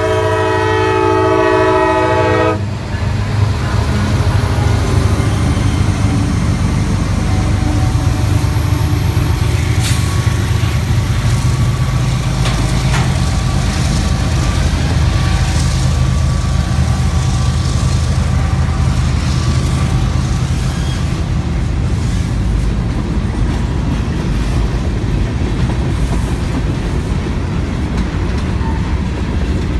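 Locomotive horn of a CSX mixed freight train sounding a chord, cutting off about two and a half seconds in. Then the steady rumble and wheel clatter of the freight cars rolling past, with faint wheel squeal.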